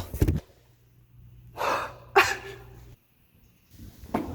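A person breathing: a short breathy exhale about a second and a half in, then a brief gasp-like breath with a bit of voice in it about half a second later, over a faint low hum that cuts off near the end.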